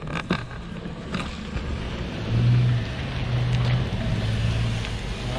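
4x4 vehicle's engine running at low revs as it crawls over a rocky obstacle: a steady low hum that swells for a second or so about two seconds in, with a couple of short knocks near the start.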